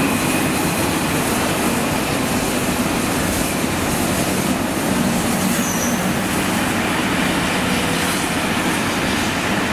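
Train of Pullman coaches hauled by steam locomotive 35028 pulling out and rolling past, a steady noise of wheels on the rails.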